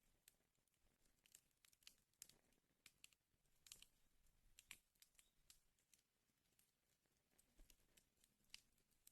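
Faint wood fire crackling: burning logs giving off irregular sharp pops and ticks, several a second, with a couple of louder pops near the middle.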